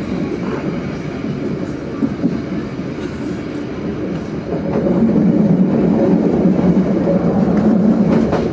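Passenger train running along the track, a steady rumble of wheels on rails. It grows louder about halfway through.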